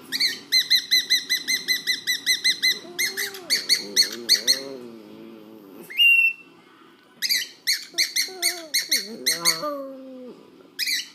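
Bird chirping in fast, evenly repeated runs of sharp high notes, about seven a second, with short pauses between the runs. A lower wavering sound comes in under some of the runs.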